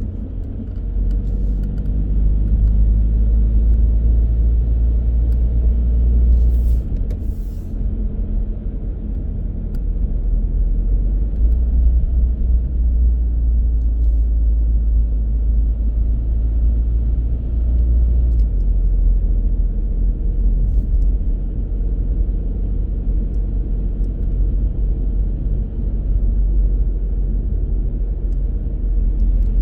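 Car driving on the road: a steady low rumble of engine and tyre noise with an engine hum. The rumble eases about seven seconds in and builds again around eleven seconds.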